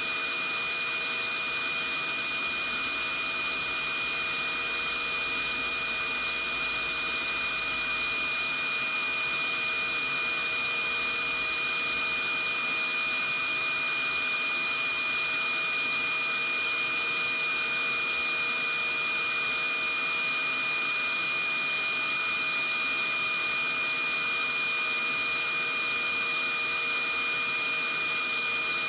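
Vacuum cleaner running steadily: an even whooshing hiss with a high motor whine on top, played as white noise for lulling a baby to sleep.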